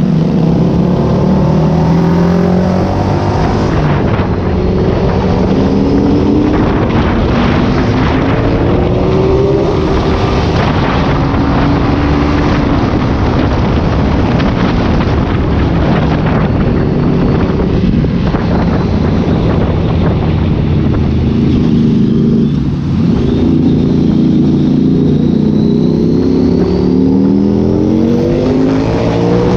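Ducati Scrambler Cafe Racer's 803 cc L-twin engine and exhaust, loud, accelerating while riding: its pitch rises repeatedly and drops back between pulls, as when shifting up through the gears.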